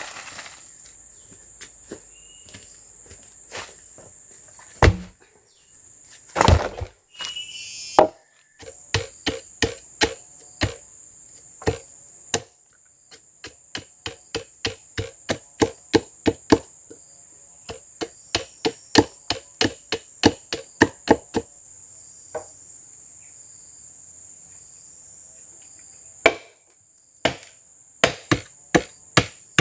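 Wood being chopped or struck with a tool in steady runs of sharp blows, about two a second, with a couple of heavier thumps early on. A constant high-pitched insect drone runs underneath.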